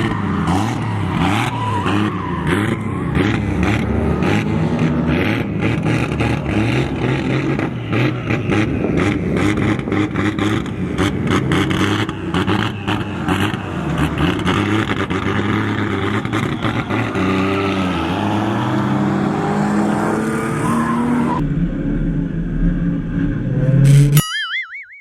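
Several drift cars running in close tandem, their engines revving up and down over tyre squeal, with many sharp pops. Near the end the sound cuts abruptly to a lower rumble, then drops out briefly with a short warbling tone.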